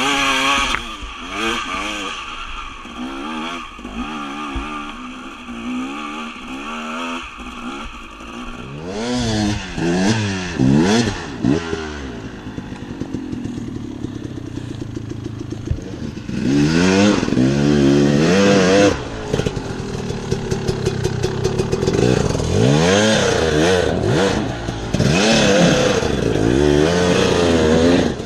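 Dirt bike engine being ridden, its pitch rising and falling again and again with throttle and gear changes. It runs fairly low for the first several seconds, then revs much louder from about nine seconds in.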